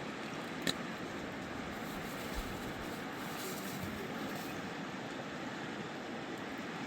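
Steady rushing of a fast mountain river, with a single sharp click less than a second in.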